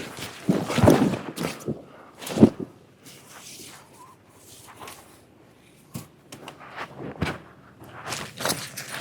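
Irregular thuds, knocks and rustling, loudest about a second in and again at about two and a half seconds, then softer scattered knocks.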